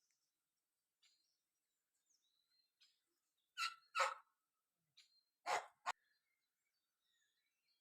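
A dog barking four times, in two quick pairs about two seconds apart, with faint bird chirps around them.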